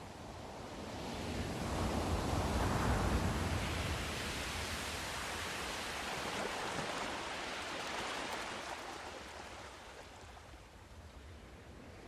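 Sea surf: a wave swells in and breaks with a rushing wash, holds for several seconds, then draws back and fades before the next one begins to build near the end.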